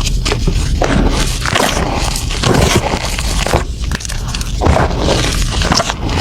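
Blocks of gym chalk crushed and crumbled by hand: a dense, irregular crunching and crackling as the chalk breaks into powder.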